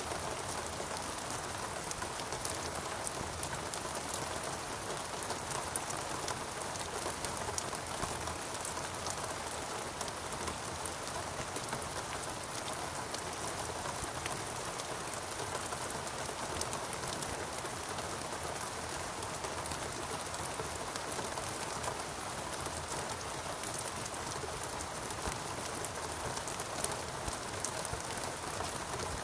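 Steady rain falling, with many fine drop patters over an even hiss.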